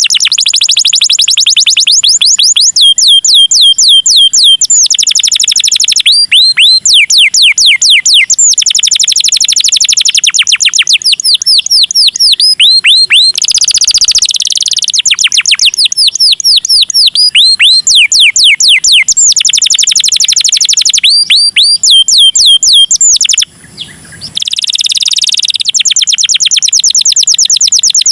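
Domestic canary singing: unbroken runs of rapid high trills, each a fast string of sharply falling notes, changing to a new phrase every second or two. There is a brief break about 23 seconds in.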